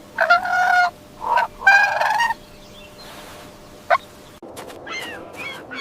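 Farm fowl calling: three loud calls in the first two and a half seconds, the last the longest, then softer calls near the end.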